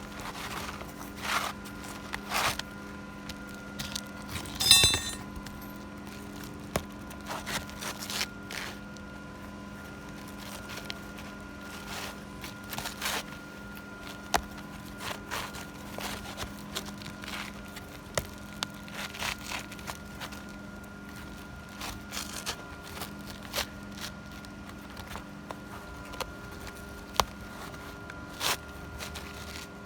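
Scattered scrapes, crunches and clicks of work on an asphalt shingle roof, with footsteps on the shingles, over a steady low hum. One sharp, ringing clink about five seconds in is the loudest sound.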